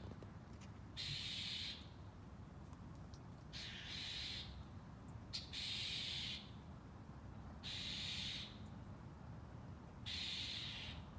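A frightened domestic cat hissing, five breathy hisses about every two seconds, each lasting just under a second.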